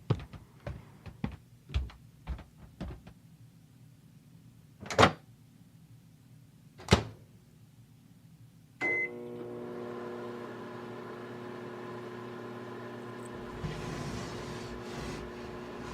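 A run of light taps and knocks, then two loud bangs about two seconds apart. A short beep follows as a microwave oven starts, and its steady hum runs on.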